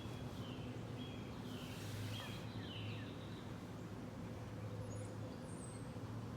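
A small bird chirping: a quick series of short chirps, each sliding down in pitch, through the first half, then stopping. A steady low hum runs underneath.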